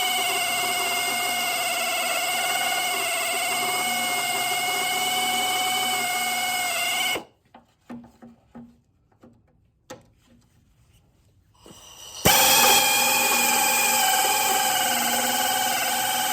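Handheld power tool on car body steel, its motor running at a steady high-pitched whine. It stops about seven seconds in, leaving a few light knocks, then starts again about five seconds later, the pitch sagging briefly near the end as it comes under load.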